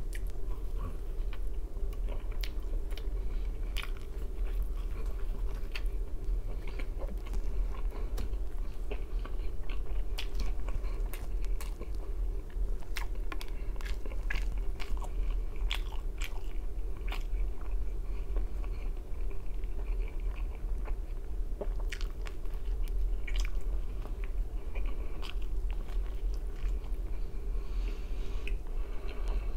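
Close-up chewing and biting of a thin-crust pizza slice, with scattered crunches and mouth clicks throughout, over a steady low hum.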